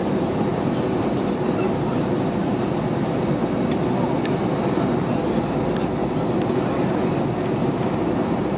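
Steady cabin noise inside an Airbus A320-232 airliner: an even rumble of engines and airflow, with a few faint clicks.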